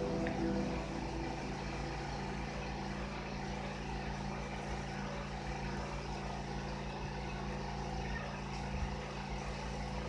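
Steady, unchanging low mechanical drone with a constant hum, as of an engine or motor running.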